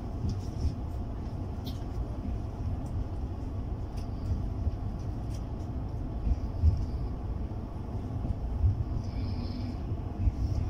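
Passenger train running along the track, heard from inside the coach as a steady low rumble, with a few faint clicks.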